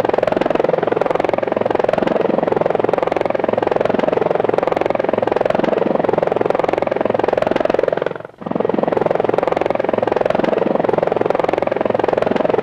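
Small remote-control helicopter's electric motor and rotors buzzing steadily with an even, fast rotor pulse, dropping out sharply for a moment about eight seconds in.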